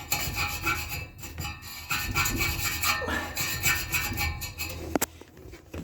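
A brush scrubbing between the blades of a furnace blower wheel, in quick scraping back-and-forth strokes, with a sharp click about five seconds in before it goes quieter.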